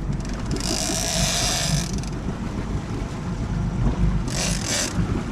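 Big-game fishing reel's drag buzzing as a big fish pulls line, in a long burst early on and a shorter one near the end, over the low hum of the boat's engine.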